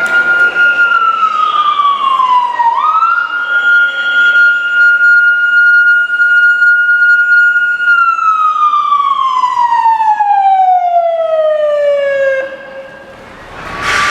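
Siren sounding a steady high wail that dips in pitch about three seconds in and snaps back up, then winds down in a long falling glide, dies back briefly near the end and starts to rise again.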